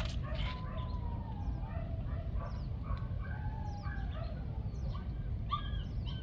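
Birds chirping and calling, with a few longer falling calls, over a steady low background rumble.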